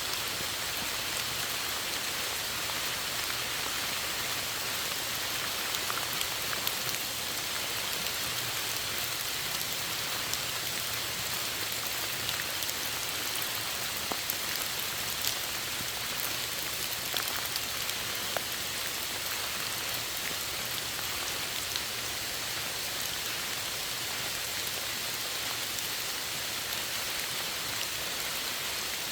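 Steady rain falling, an even hiss with scattered close drop ticks throughout.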